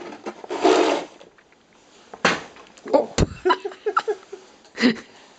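A metal snow shovel scraping through light powder snow, with sharp knocks of the shovel. The heaviest is a deep thud about three seconds in.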